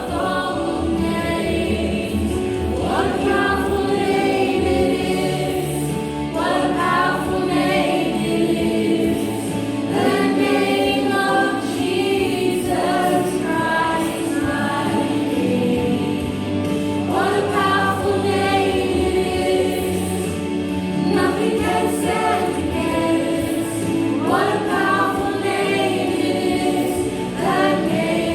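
Congregation and worship band singing a Christian worship song, many voices together over sustained accompaniment.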